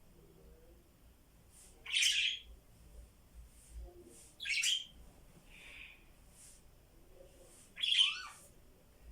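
A pet parrot giving three loud, harsh squawking calls a few seconds apart, with a fainter call between the second and third.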